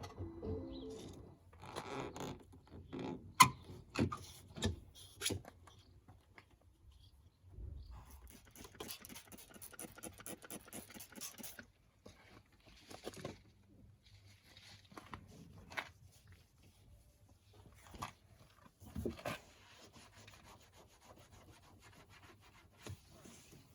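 Rubbing and scraping with scattered clicks and knocks. A closely packed rubbing sound runs from about eight to eleven seconds in.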